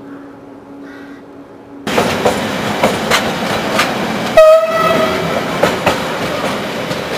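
Quiet at first, then from about two seconds in an approaching electric locomotive and its train running over the rails with regular clacks at the rail joints. One short horn blast sounds about halfway through and is the loudest sound.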